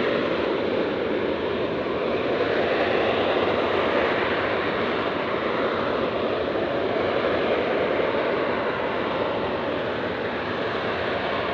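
Fixed-wing aircraft engine noise, a steady rush that holds at much the same level throughout.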